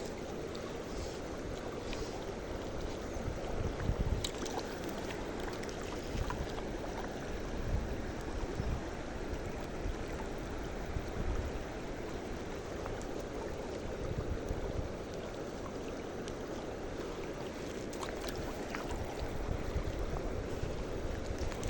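Steady rush of a flowing mountain river.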